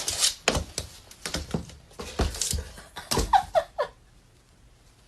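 A dog panting in quick breaths, then three short cries falling in pitch, a little over three seconds in.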